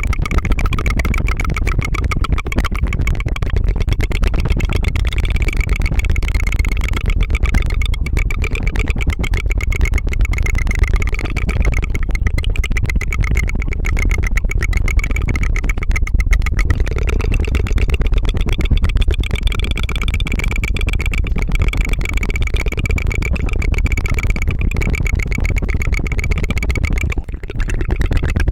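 Rapid tongue trill (tongue fluttering) made close to the microphone: a continuous fast rattling 'tu-tu-tu' buzz that sounds like an engine, with a short break near the end.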